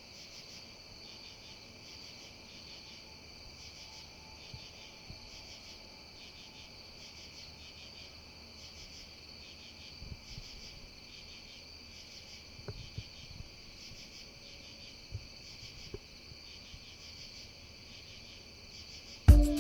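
Crickets chirping steadily, a dense high trill that pulses finely, with a few faint soft thumps in the second half.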